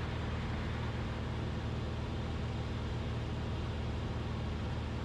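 Cessna 172RG's four-cylinder Lycoming piston engine and propeller droning steadily in cruise, heard inside the cockpit as a low, even hum with a layer of airflow noise.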